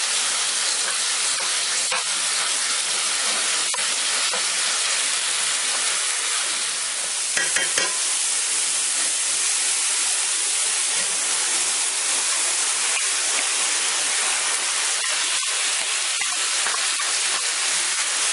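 Ground chicken sizzling steadily as it fries in a stainless steel pan, stirred with a wooden spatula. There is a brief clatter of the spatula against the pan about seven seconds in.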